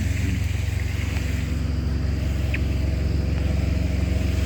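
Small diesel engine of a truck's auxiliary power unit (APU) running at a steady idle, a constant low hum. A brief high chirp cuts in about halfway through.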